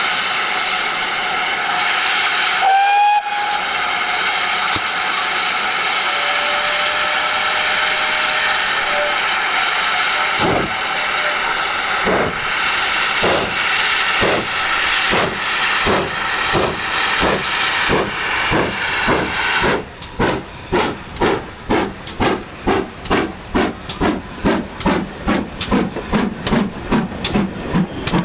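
GWR Manor class steam locomotive 7828 gives a short whistle over a steady hiss of steam, then starts away. Exhaust beats begin about a third of the way in and quicken steadily as it gathers speed. Just over two-thirds in the hiss stops, leaving sharp, distinct beats.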